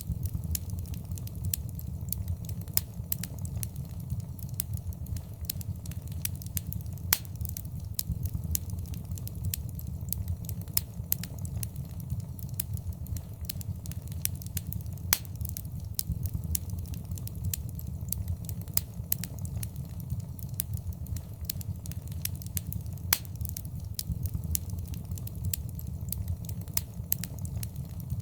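Fireplace fire crackling: a steady low rumble of flames under a constant scatter of sharp snaps and pops, with a few louder pops spread through.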